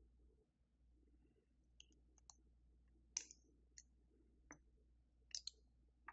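Scattered small plastic clicks and taps of a mechanical keyboard's switches and keycaps being handled, about eight irregular clicks from two seconds in, the loudest near the middle and the end.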